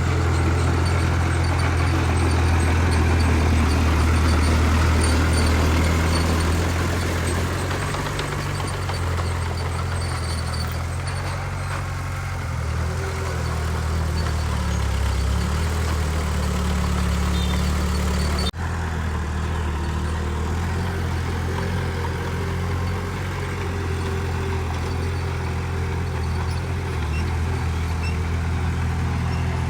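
An old bulldozer's heavy diesel engine running steadily, its note shifting slightly as the load changes, with a momentary break about eighteen seconds in.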